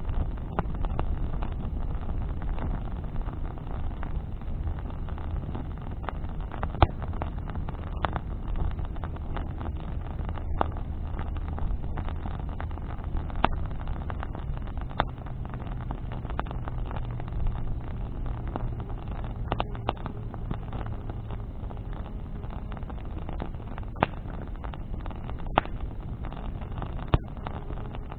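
Bonfire of branches crackling, with sharp pops every few seconds, over a steady low rumble. A distant engine hum sits underneath and shifts to a higher pitch about halfway through.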